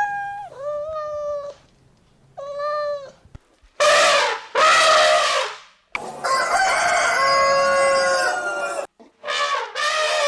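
A rooster crowing: after a few short animal calls and two loud harsh calls, one long crow of about three seconds held on a steady pitch, with another call starting near the end.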